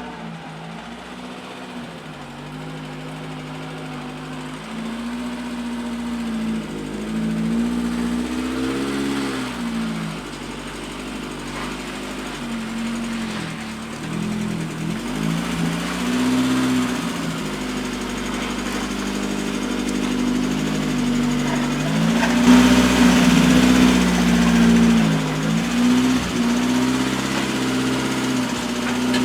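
1980 Austin Princess engine running as the car is manoeuvred, its revs rising and falling again and again, on a fairly high choke held because of a failed head gasket.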